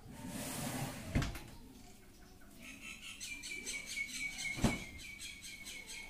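A small bird chirping in a rapid, even series, starting about two and a half seconds in. Two sharp knocks come about a second in and near the end, the second louder.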